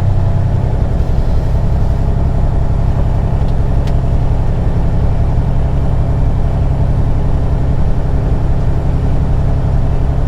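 Semi truck's diesel engine running steadily at low speed as the truck creeps into a service bay, a deep, even engine note. A stronger hum in the note drops away about a second in.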